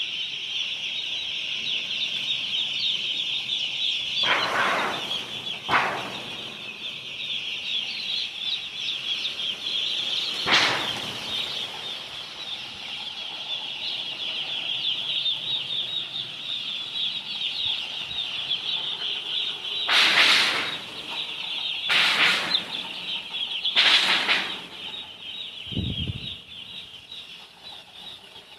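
A brooder full of day-old chicks peeping continuously, many high chirps overlapping. About six short rustling noises break through at intervals.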